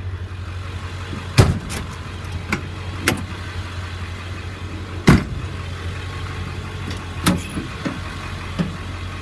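Metal cabinet doors on a truck's utility bed being shut one after another: about nine sharp clacks and bangs at uneven gaps, the loudest about one and a half seconds in and again about five seconds in. Under them the truck's 7.3-litre Power Stroke diesel V8 idles steadily.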